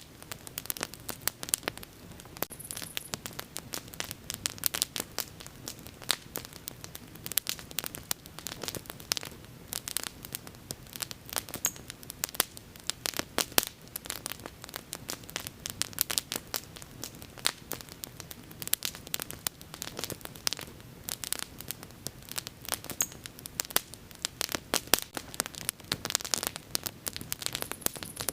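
Wood fire burning with a steady stream of sharp, irregular crackles and pops over a low rushing of flame.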